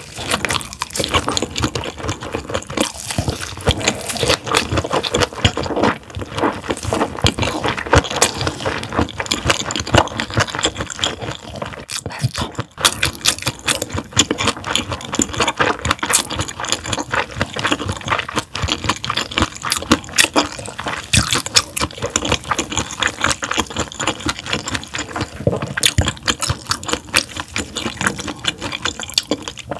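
Close-miked wet chewing of raw gizzard shad: a dense run of small, moist clicks and smacks.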